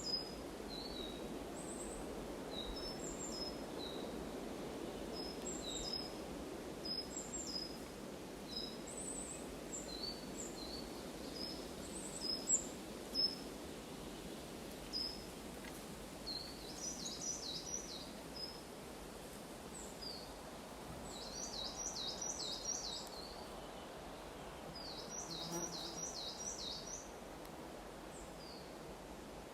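Small birds chirping and singing: short high chirps throughout, with three quick runs of rapidly repeated descending notes in the second half. Underneath is a steady low rushing background noise.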